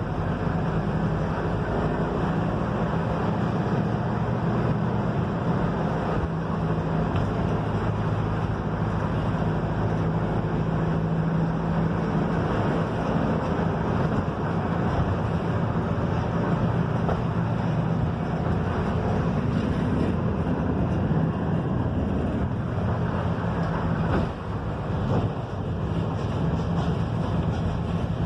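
Mercedes-Benz OF-1721 bus under way: a steady diesel engine drone over road and wind noise, easing off briefly near the end.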